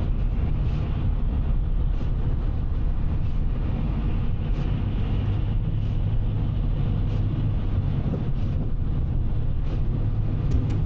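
Car driving on a snowy highway, heard from inside the cabin: a steady low rumble of tyres and engine.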